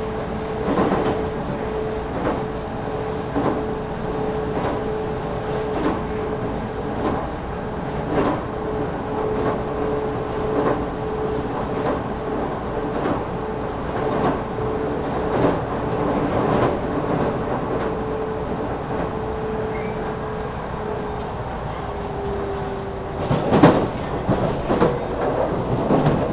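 JR 313 series electric train running, heard from inside the motor car KuMoHa 313-4. Wheels clack over rail joints about every second and a quarter over a steady rumble and hum. The hum dips slightly in pitch and fades a little past three quarters of the way through, and a louder burst of clacks comes near the end.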